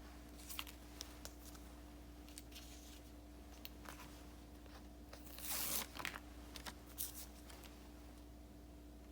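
Faint handling of paper and stickers: light crinkles and small taps, with one longer papery rasp about five and a half seconds in, over a steady faint hum.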